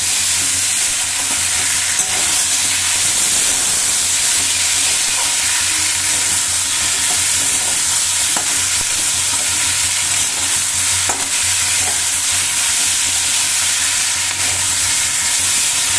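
Potato strips, peas and tomato sizzling steadily as they fry in oil in a metal kadai, while a metal spatula stirs and scrapes them, with a few faint clinks of the spatula on the pan.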